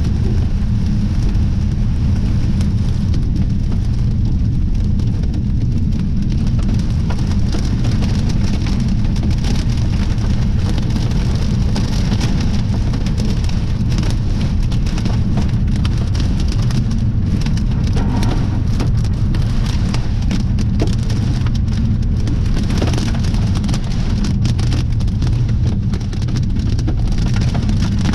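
Heavy storm rain coming down hard, a dense run of sharp taps, over a strong, steady low rumble of wind on the microphone.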